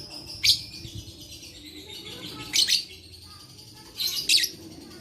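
Lovebird giving three loud, shrill chirps, about two seconds apart, over a faint steady high background.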